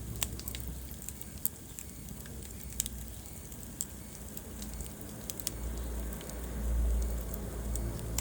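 Wood fire crackling in a fireplace: irregular sharp pops and snaps over a low rumble of burning, the rumble swelling briefly about six seconds in.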